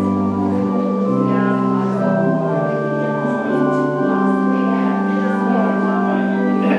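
Organ playing slow, held chords, with the bass notes moving every second or so.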